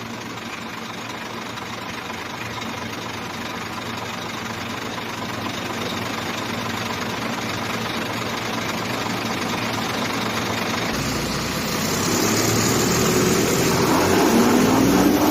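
Heavy truck's diesel engine straining under load, its revs and loudness building steadily and surging further about two-thirds of the way through, with a rising pitch near the end; the truck is stuck and not moving.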